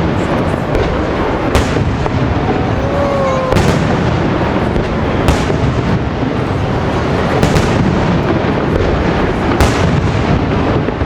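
Fireworks display going off: a dense, continuous rumble of bursts with sharp bangs about every two seconds. A short whistle glides through the middle.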